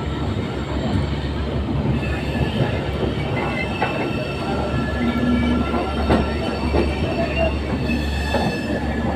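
Passenger train coach rolling slowly out of a station, heard from the open door: a steady rumble of wheels on the rails with thin high wheel squeals and a few sharp clicks from the track.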